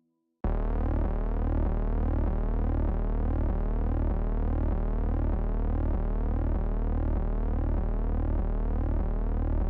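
Electronic synthesizer tones from the background music: a steady sine-like drone with repeating rising chirp sweeps over a pulsing deep bass. It starts abruptly about half a second in.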